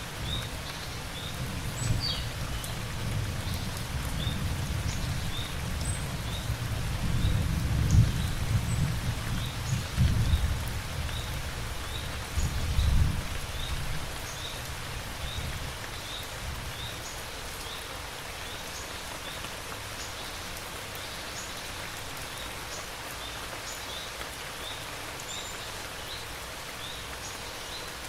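Steady rain falling, with low thunder rumbling through the first half, swelling twice and then dying away. A faint high chirp repeats about once a second throughout.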